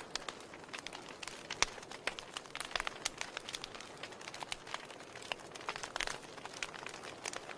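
Wood fire crackling in a fireplace: irregular sharp pops and snaps over a soft steady hiss, with one louder snap about one and a half seconds in.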